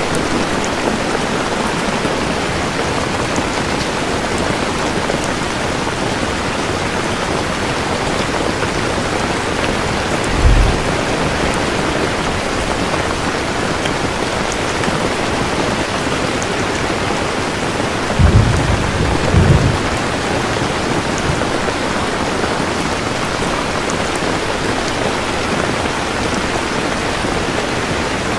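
Steady heavy rain, with low rumbles of thunder about ten seconds in and again, louder and longer, at around eighteen to twenty seconds.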